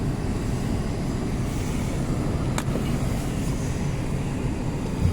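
Steady low rumble of a car, its engine running, with a single sharp click about two and a half seconds in and a thump at the very end.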